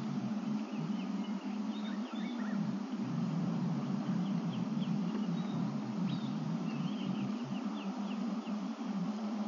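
Small birds chirping and trilling in short, scattered phrases over a steady low hum.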